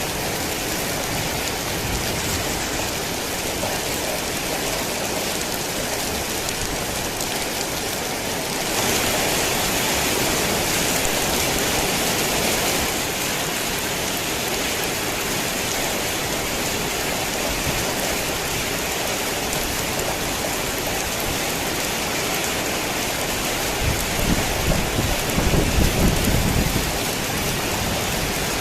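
Heavy rain pouring steadily, turning a little louder and hissier about a third of the way through. Near the end a low rumble of thunder rolls in under the rain.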